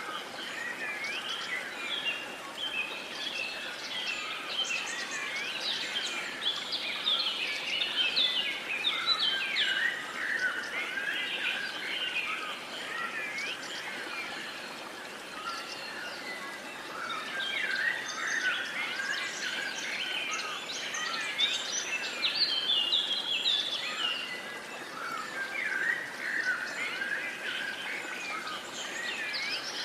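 A chorus of many songbirds, with overlapping chirps and trills that carry on without a break over a faint, even background hiss.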